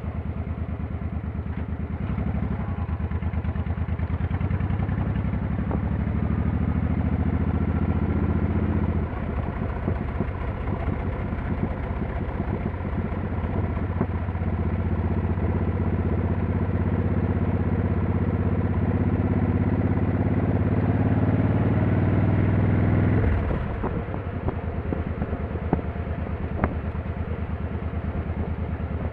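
Motorcycle engine under way, pulling up in pitch for several seconds, dropping at a gear change about nine seconds in, then rising again for a long stretch before falling away suddenly as the throttle is closed, settling to a lower steady running note. A couple of sharp clicks near the end.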